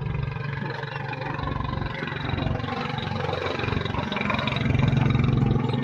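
Heavy old diesel engine running with a steady, rough low pulse, getting louder near the end.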